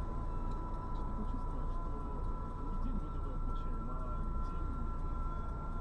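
Steady low rumble of a car heard from inside the cabin on a dash cam, with two steady thin high tones over it and faint muffled voices.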